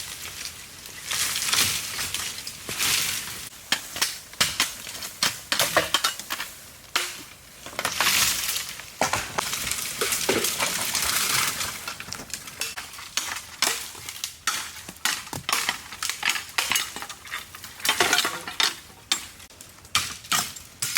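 Irregular scraping, rasping and knocking of hand work on earth and stone, a run of sharp clicks and scrapes with no steady rhythm.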